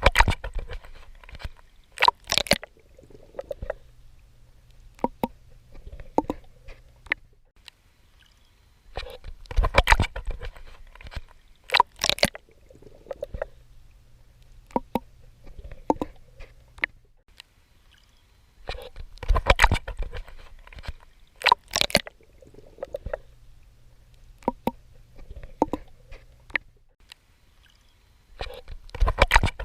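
A swimmer's strokes splashing and sloshing in water, coming in clusters about every ten seconds, with scattered small splashes and a faint low rumble between them.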